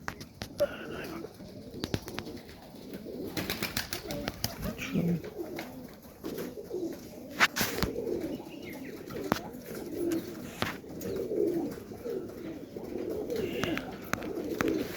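Domestic pigeons cooing over and over, low warbling calls overlapping one another, with scattered sharp clicks and taps among them.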